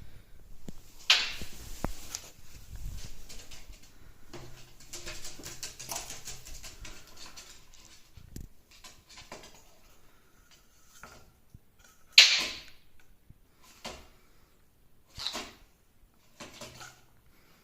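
Eclectus parrot playing on a tabletop: scattered taps, scratches and rustles, with a loud harsh burst about twelve seconds in and a smaller one about three seconds later.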